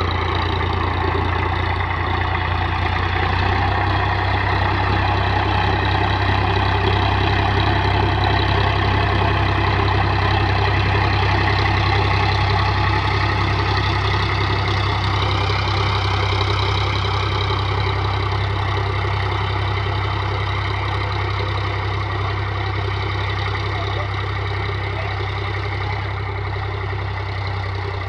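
Indo Farm 3035 DI tractor's diesel engine running steadily while pulling a plough, its pitch wavering a little about halfway through.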